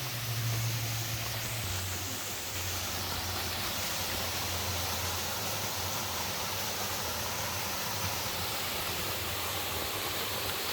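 Waterfall running: a steady, even hiss of falling water. A low steady hum lies under it, loudest in the first two seconds.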